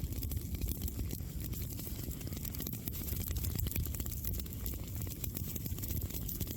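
Campfire crackling: wood burning with dense, irregular small pops and snaps over a low steady rumble.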